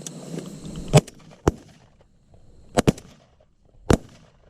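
Shotguns firing at passing doves: five sharp shots, the first about a second in, another half a second later, a quick double near three seconds and a last one near four seconds.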